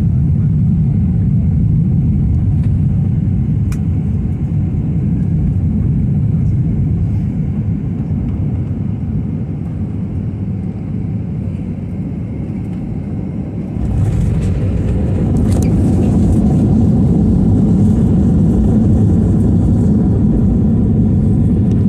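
Cabin noise of a Boeing 737-800 with CFM56 engines landing: a steady low rumble that eases slightly, then jumps to a louder rumble about fourteen seconds in as the wheels touch down and the rollout begins.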